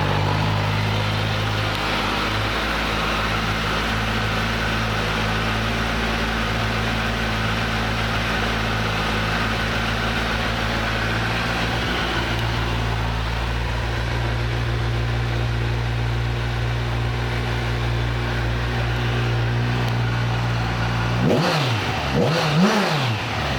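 2011 Kawasaki Ninja 1000's stock inline-four engine idling steadily just after starting. Near the end it is revved twice in quick succession, each rev rising and falling quickly before it settles back to idle.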